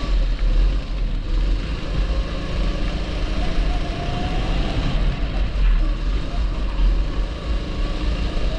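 A 270cc kart engine running under way, its pitch rising a little around the middle, over a heavy buffeting rumble of wind on the microphone.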